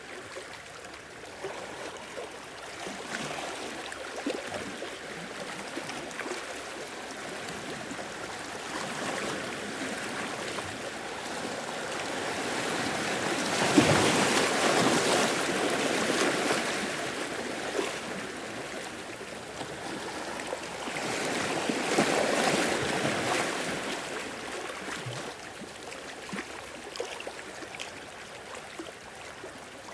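Sea waves washing in and draining back, heard from inside a sea cave. Two waves swell louder, the bigger about halfway through and a second a few seconds later, between quieter gurgling and trickling water.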